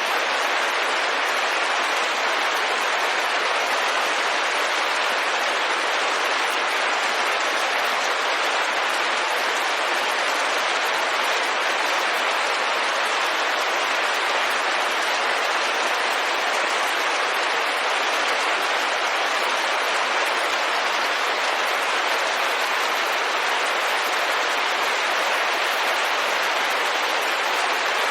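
Steady rain falling on a window: an even hiss that holds level and does not change.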